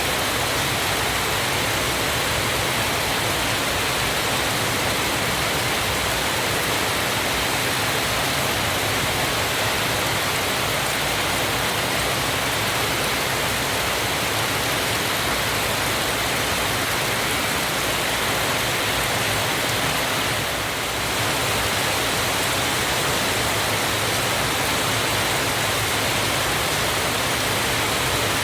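Waterfall rushing steadily, a constant, unbroken roar of falling water.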